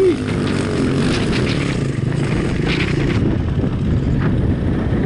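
Dirt bike engine running close to the microphone, mixed with heavy wind rumble on a helmet camera; the sound stays dense and even throughout.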